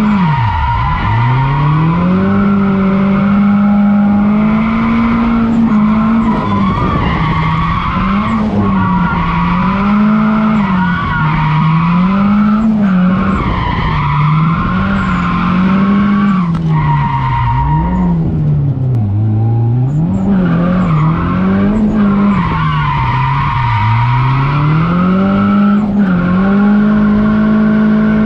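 Turbocharged SR20DET four-cylinder of a Nissan 240SX drift car heard from inside the cabin, its revs rising and falling over and over with the throttle, over continuous tire squeal from sliding. About half a second in, the revs drop sharply and climb back within a second or two.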